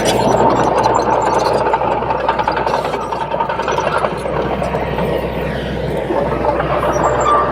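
Heavy diesel engine of an earthmoving machine running steadily, with a dense mechanical clatter over a constant low hum.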